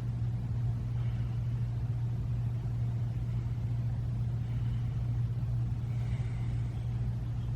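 A steady low hum, with a few faint, brief high sounds: one about a second in and a couple more later.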